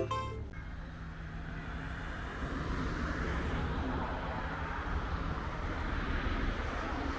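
A vehicle running steadily: a low hum under an even rushing noise, a little louder after about two seconds.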